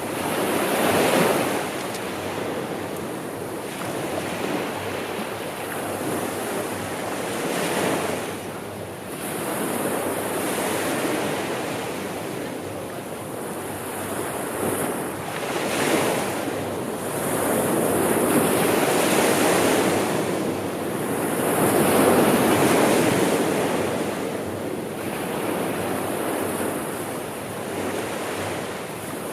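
Sea waves breaking and washing on the shore, the surf swelling and easing every few seconds, with a constant hiss of wash.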